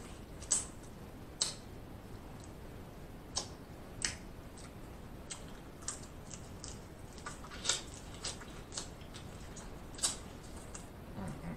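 Close-miked eating of snow crab meat: short, wet mouth clicks and smacks at irregular intervals, roughly one a second.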